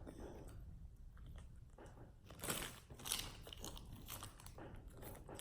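A person chewing and biting food close to the microphone, with soft mouth clicks and two louder crunchy bites about two and a half and three seconds in.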